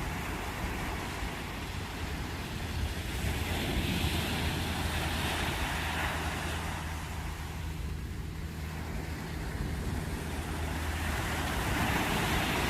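Ocean surf washing onto a beach, swelling to a peak about four seconds in and again near the end, easing in between. A steady low hum lies underneath.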